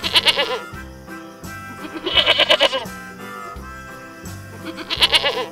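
A goat bleating three times, each call wavering, over steady background music.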